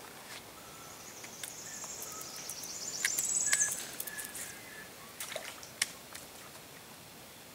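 Small birds calling in a mangrove: a high, rapid trill that swells and fades between about one and four seconds in, a few short whistled notes, and scattered light clicks.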